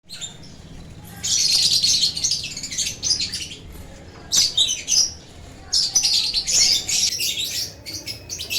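Lovebirds chattering with rapid, high, shrill chirps, in three loud spells: about a second in, near the middle, and again in the second half.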